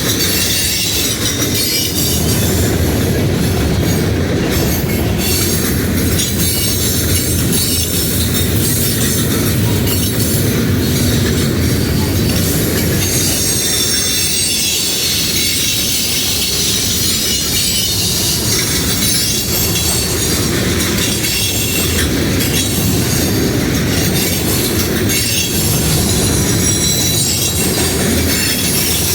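A freight train rolling past close by, its wheels clicking over rail joints, with steel wheel flanges squealing against the rail.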